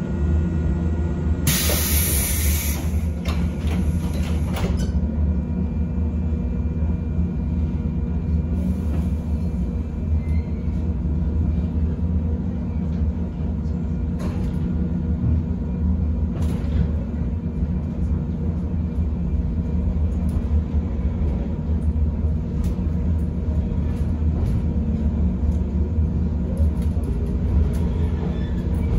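JR West 113 series electric train running, heard aboard its MT54-motored motor car: a steady low rumble with a few faint steady tones. A brief high hiss comes about two seconds in.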